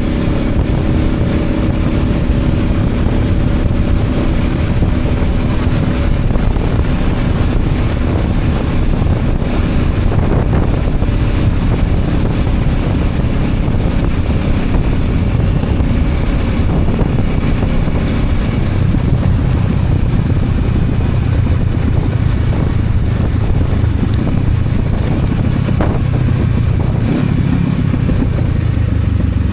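Honda CB500X's parallel-twin engine running steadily under way, with wind noise on the microphone. A higher engine tone heard at the start fades out after about six seconds, leaving a steady low drone.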